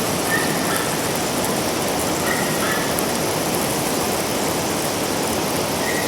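Steady rushing of a river flowing, with no changes.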